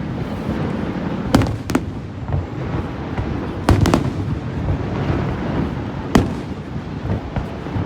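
Fireworks bursting: about five sharp bangs, two close pairs and then a single one, over a steady low rumble.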